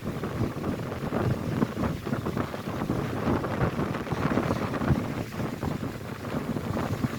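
Strong wind buffeting the microphone over the steady wash of lake waves breaking on the shore.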